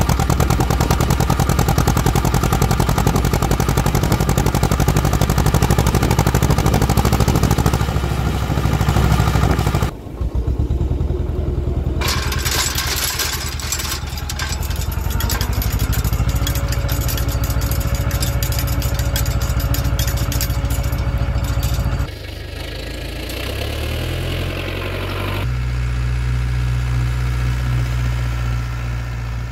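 Farm machinery engines running and idling, in several short clips cut one after another. The sound changes abruptly about ten, twelve, twenty-two and twenty-five seconds in.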